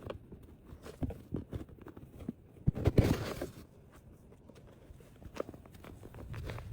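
Packing handling noise: scattered light knocks and taps, with a louder burst of rustling about three seconds in.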